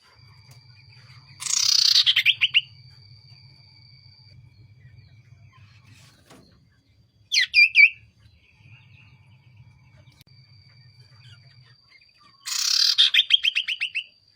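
Common iora (cipoh) singing: two loud, rapid trills about ten seconds apart, each sliding down in pitch, with a short call of a few notes in between.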